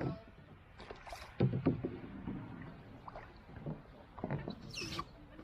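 Canoe paddling: paddles dipping and knocking against the canoe, with several irregular knocks and splashes.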